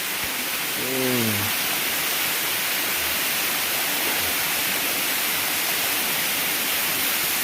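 Waterfall rushing steadily, the water pouring down close to the microphone. A brief vocal sound about a second in.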